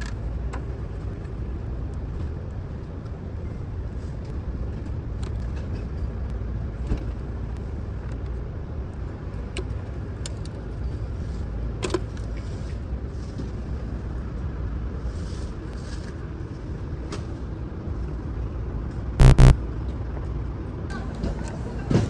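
A car engine running with a steady low rumble, with faint scattered clicks. Near the end comes a short, loud two-pulse beep.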